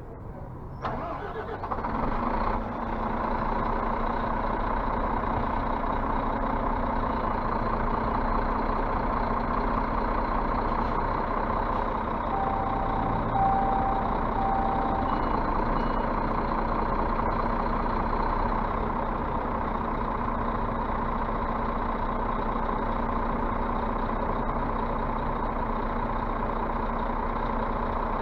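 Scania bus diesel engine starting up about two seconds in, then running steadily to build up air pressure in a system that is low on air. Midway there are three short beeps of one pitch.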